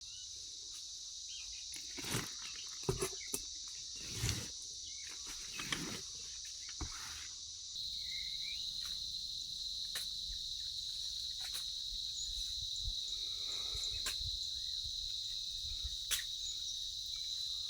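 Steady high-pitched chorus of insects, likely crickets, with a few short knocks in the first seven seconds.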